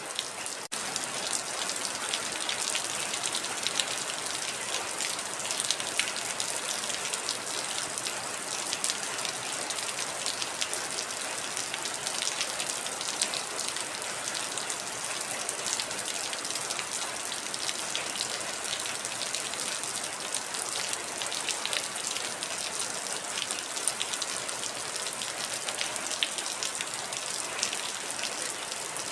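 Heavy rain falling steadily: a dense hiss full of individual drop patters, with a momentary dip in the sound just under a second in.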